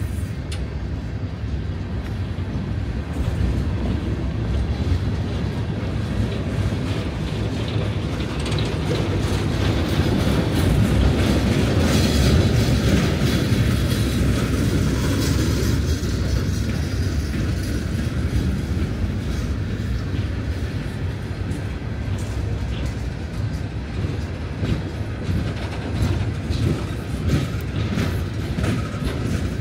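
Empty coal cars of a freight train rolling by: a steady rumble of steel wheels on rail, with irregular clicking and clattering of wheels over rail joints.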